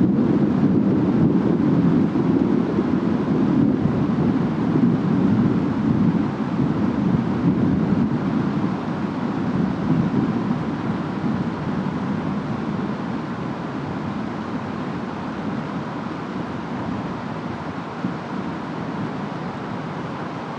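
Distant rainstorm with wind and a low rumble of thunder that comes in suddenly at the start and slowly dies away.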